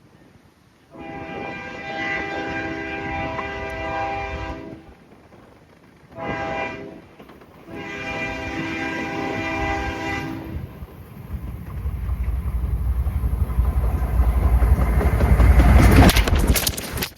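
Freight train horn sounding a chord in three blasts, long, short, long, then the train's rumble and wheel clatter swelling as it passes right beside the phone's microphone. Several sharp cracks near the end as the train strikes the tripod and phone.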